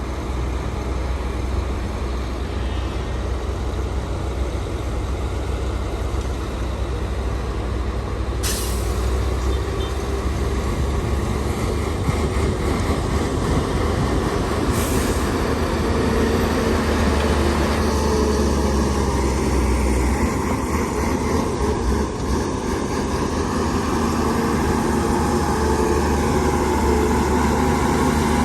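Heavy diesel earthmoving machinery, a bulldozer and dump trucks, running steadily with a low drone. There are two short hisses of air, about 8 and 15 seconds in. In the second half the engine note gets busier and a little louder, as if working under more load.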